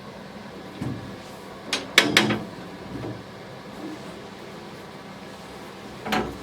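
Several knocks and bumps of wooden parts being handled: a light one about a second in, a louder cluster of two or three about two seconds in, and one more near the end, over a faint steady hum.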